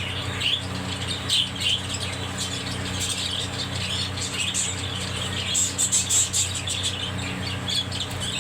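Budgerigars chirping and chattering in quick short notes, busiest in the second half, over a steady low hum.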